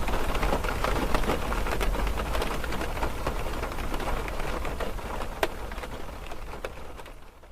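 Steady rain, with individual drops hitting sharply here and there, fading out over the last couple of seconds.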